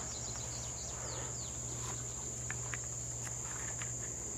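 Steady high-pitched insect chorus, with a low hum underneath and a few faint clicks and short falling chirps.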